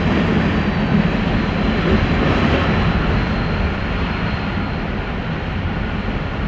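Diesel-hauled freight train rumbling steadily as it pulls away, slowly fading.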